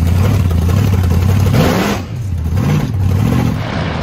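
Supercharged V8 of a blower car, heard from inside the cabin, running steadily with a low rumble, then revved several times in quick rising-and-falling blips over the second half.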